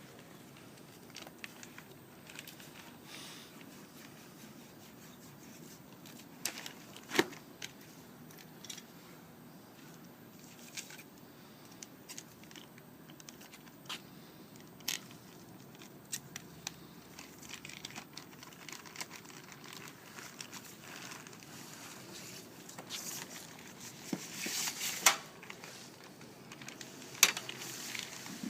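Handling noise of crinkling and tearing, with scattered sharp clicks and knocks, the loudest about seven seconds in and again near the end.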